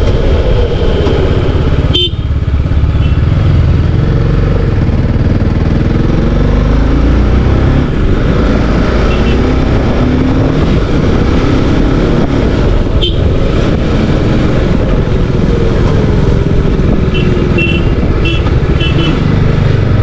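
Motorcycle engine running hard, its pitch rising and falling as it revs through the gears, under a steady rush of wind on the microphone. Two sharp knocks sound, about two seconds in and again past the middle.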